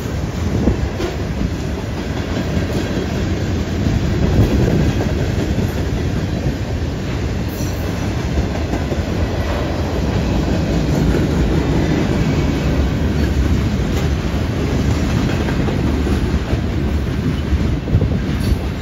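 Freight cars rolling past at close range: a steady rumble of steel wheels on rail, with clicking and clacking as the wheels cross the track.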